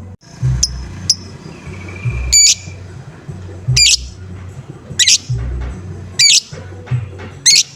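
A lovebird giving short, shrill, harsh squawks, one roughly every second, in the repeated 'ngoek-ngoek' call used as a lure to set other lovebirds calling. A low drum beat from background music runs underneath.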